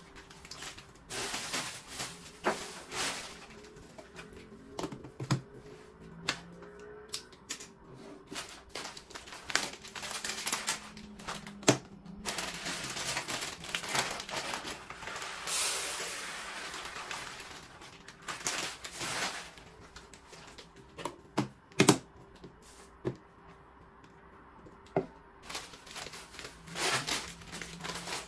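Plastic food containers and packets of dry goods being handled while a pantry is filled: a run of irregular clicks and knocks from lids and containers, with rustling of packaging and a longer hissing stretch in the middle.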